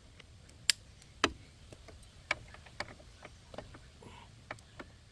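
Hand tools clinking: about eight or ten sharp, irregular metal clicks as a socket and extension are fitted together, the loudest two in the first second and a half.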